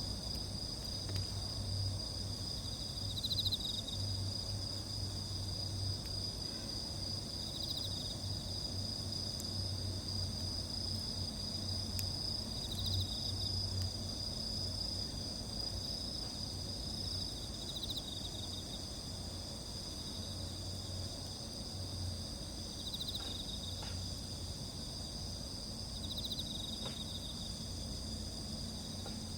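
Night-time chorus of crickets: several steady high-pitched trills overlapping, with one insect repeating a short pulsed chirp about every three seconds. A few faint crackles come from the campfire.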